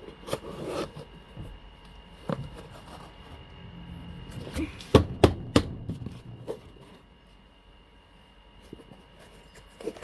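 Knocks and clatter of a plastic detergent scoop and a box of powder being handled. The loudest part is three sharp knocks in quick succession about five seconds in.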